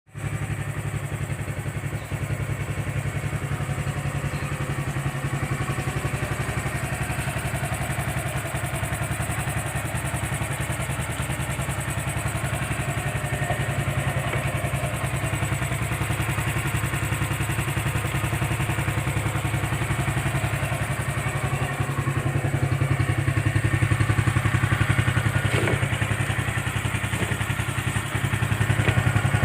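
Honda Supra FI motorcycle's single-cylinder four-stroke engine running steadily at idle on its first start after restoration. It grows a little louder in the last third.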